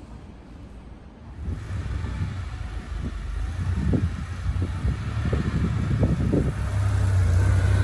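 Porsche 911 (964) Turbo's air-cooled turbocharged flat-six running as the car drives by. The engine comes in about a second and a half in and grows louder toward the end.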